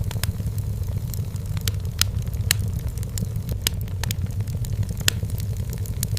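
Wood fire burning in a fireplace: a steady low rumble of flame with sharp, irregular crackles and pops of burning firewood, several a second.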